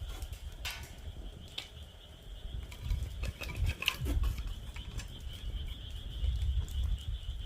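Wood fire in a fire pit stand crackling, with scattered sharp pops, over a steady high-pitched chorus of frogs calling. A low rumble runs underneath and grows louder from about halfway through.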